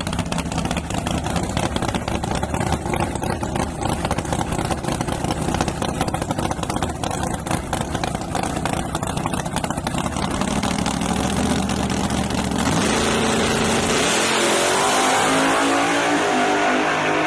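Nitrous-equipped Ford Ranger drag truck's engine running with a choppy, uneven idle, then accelerating hard for the last few seconds, its pitch climbing steadily.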